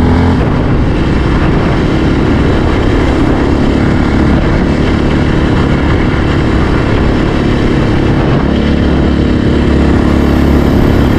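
Yamaha Raptor 700R's single-cylinder four-stroke engine running under way on a sandy trail, its engine note steady and loud, rougher through the middle and evening out near the end.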